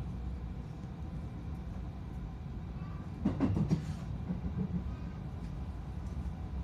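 Inside a moving electric commuter train: a steady low running rumble, with a short burst of louder clattering a little past three seconds in.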